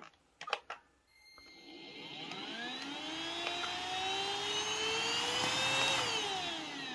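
A couple of clicks, then a cheap cordless stick vacuum's motor switched on and spinning up, its whine rising steadily in pitch for several seconds before it is switched off and winds down near the end. It is running on freshly replaced battery cells after a loose connection to the circuit board was soldered back.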